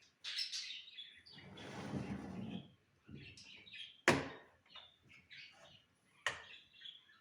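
Small birds chirping, with a patch of rustling noise about a second and a half in and two sharp knocks, about four and six seconds in.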